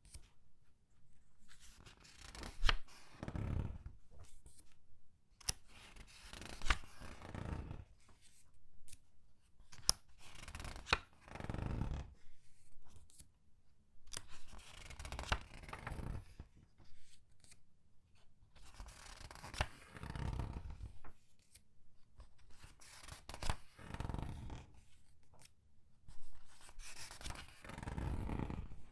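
Comic book pages being turned one after another, about every four seconds. Each turn is a papery swish with crinkling, and the pages are squeezed as they go, which gives sharp crisp snaps.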